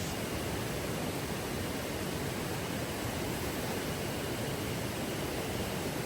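River water flowing steadily: a continuous, even rushing.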